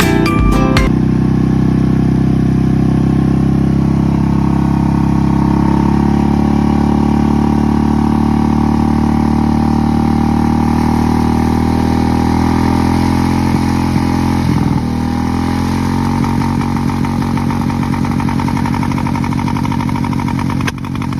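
Royal Enfield Bullet's single-cylinder engine running steadily at idle, its pitch wavering slightly, and a little quieter after about fifteen seconds.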